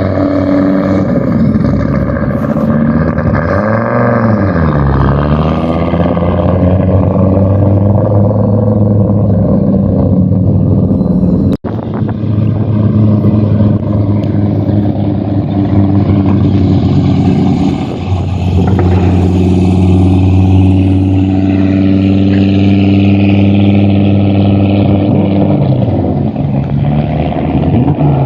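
Audi Quattro Group B's turbocharged five-cylinder engine running loud, mostly held at a steady pitch, with a quick drop and rise in revs about four seconds in and the pitch falling near the end. The sound breaks off for an instant about halfway through.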